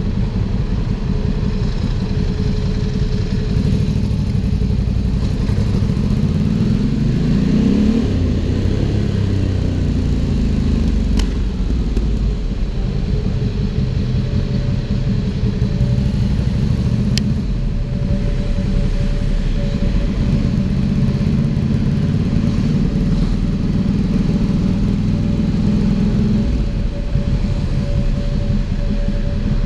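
Ducati Hypermotard 796's air-cooled L-twin engine running through an aftermarket Arrow exhaust while riding. The revs climb about six to eight seconds in and fall away, then climb again and drop off sharply a few seconds before the end.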